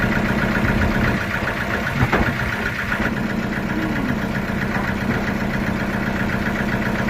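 An engine running steadily at idle, with a single sharp knock about two seconds in.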